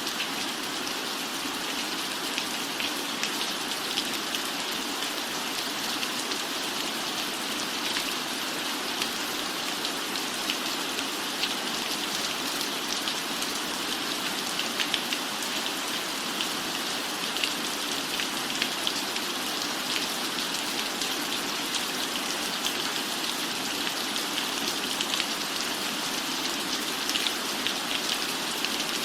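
Steady rain falling, with scattered sharp ticks from drops.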